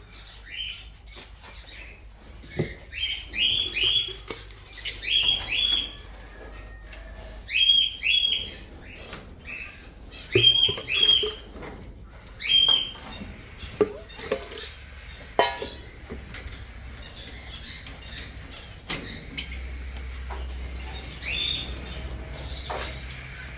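Small parrots calling: short rising chirps, mostly in pairs, repeated through the first half, with one more call near the end. A few sharp knocks and clatter sound in between.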